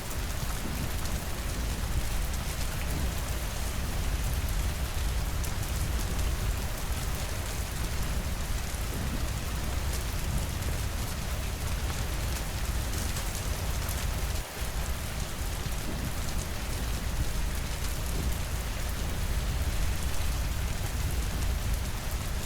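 Steady rainfall pattering on surfaces, with a constant low rumble underneath. The sound dips for a moment about two-thirds of the way through.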